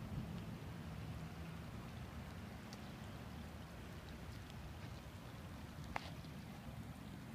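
Light rain falling on floodwater and wet pavement, with scattered faint drop clicks and a sharper tick about six seconds in, over a low steady rumble.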